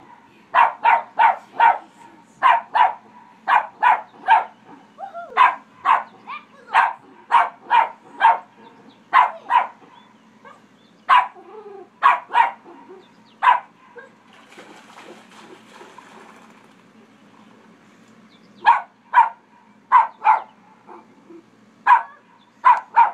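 Dog barking in quick runs of sharp barks, often several a second, pausing for a few seconds after the middle before starting again.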